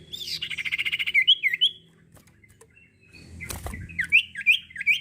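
Sirtu songbird singing: a fast, evenly repeated trill for about a second and a half, then a run of short rising chirps. A brief noise breaks in about halfway through.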